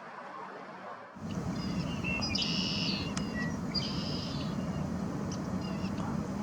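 Red-winged blackbird calling: two harsh, buzzy phrases about a second apart, with shorter chips before and after, over a steady low rumble that starts abruptly about a second in.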